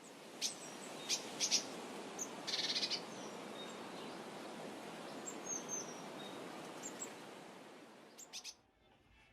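Birds chirping in short, scattered calls with one brief trill, over a steady outdoor background hiss; the ambience cuts off abruptly near the end.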